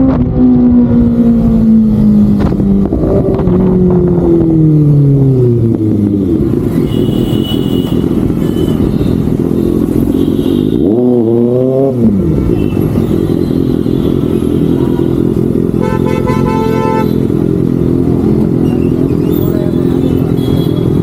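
Kawasaki ZX-6R inline-four sportbike engine heard from on board: the revs fall steadily as the bike slows, rise and drop sharply once about halfway through, then settle into steady running.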